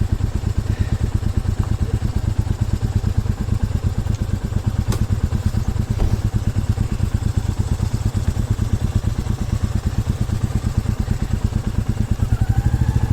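Single-cylinder motorcycle engine idling steadily, an even, rapid low thudding.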